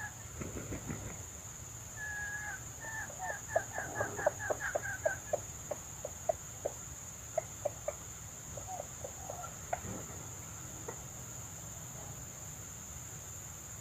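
Red junglefowl hen clucking: a quick run of clucks about two seconds in, then a slower series of sharp single clucks, a few more trailing off later. A steady high-pitched insect drone runs underneath.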